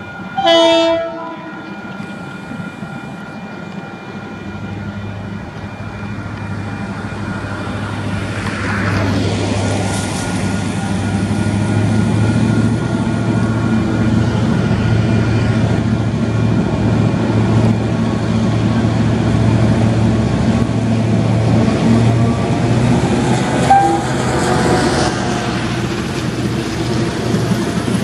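Diesel locomotive gives a short horn blast about half a second in. Its engine then grows louder as it approaches and hauls a train of vintage carriages past, wheels clattering on the rails. Level crossing bells ring throughout.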